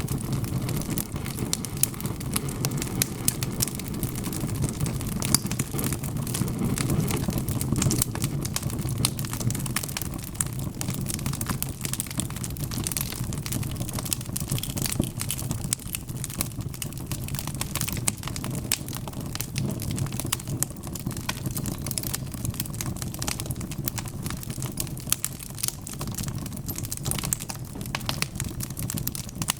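Wood fire crackling: a dense, irregular patter of sharp pops and snaps over a steady low rumble of the burning logs.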